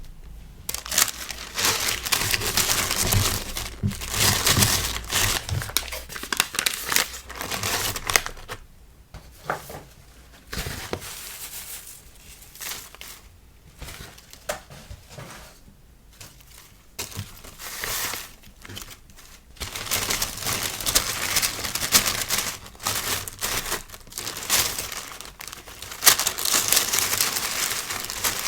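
Packaging being handled by hand while packing a sticker order: plastic and paper crinkling and rustling in irregular bursts, sparser in the middle and busier near the end.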